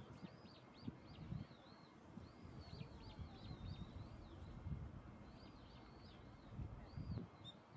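Eurasian oystercatchers calling: quick series of high piping notes, each rising and falling, coming in three or four bursts.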